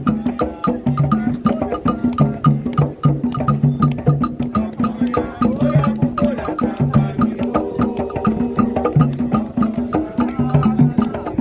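Candomblé drumming: atabaque hand drums playing a fast, steady toque over a bright bell pattern, a dense rhythm of sharp strokes on repeating low drum tones.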